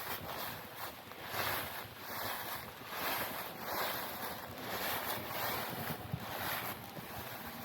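Footsteps crunching and rustling through a thick layer of dry fallen leaves, about two steps a second.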